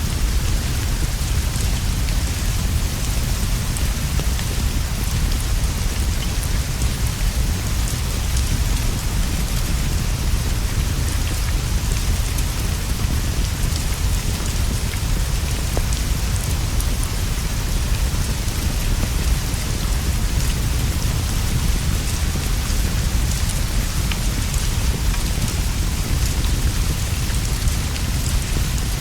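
Steady rain falling on leaves and a straw roof, with a deep, constant low rumble and many small ticks and pops scattered through it, mixed with a crackling wood fire.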